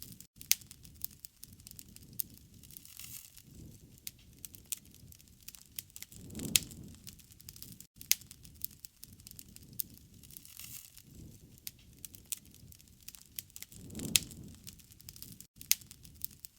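Wood fire crackling, with frequent sharp pops and snaps. A low rushing swell rises and fades twice, about seven seconds apart.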